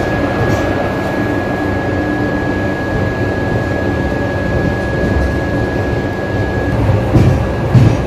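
Passenger coach running on the rails, heard from inside: a steady rumble of wheels on track with a thin high whine that stops about seven seconds in, and a couple of heavier knocks near the end.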